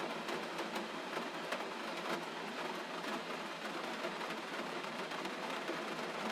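Gentle steady rain, an even hiss with scattered light drop ticks.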